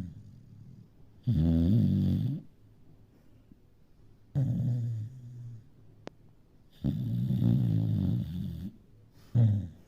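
A small dog snoring in her sleep, like a grown person: four snores about one to two seconds long, each with a quiet pause of a second or two before the next.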